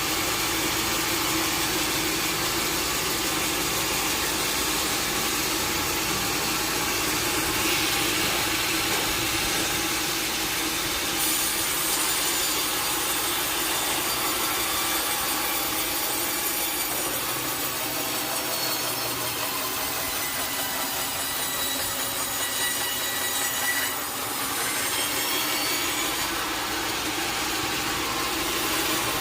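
Sawmill saw cutting through a log: a steady, dense sawing noise with a high whine running through it, its tone shifting a few times as the cut goes on.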